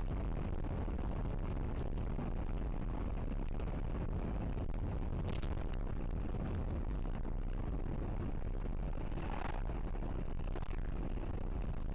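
Steady low rumble of a car driving, with road and engine noise at an even level. Faint brief sounds come about five and nine seconds in.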